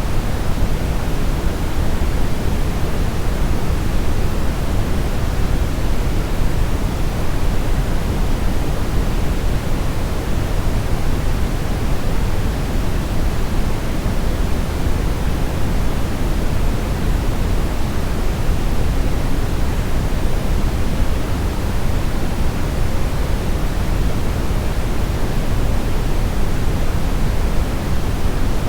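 Steady brown noise: an even, unchanging rushing hiss weighted toward the deep bass, with the highs rolled off.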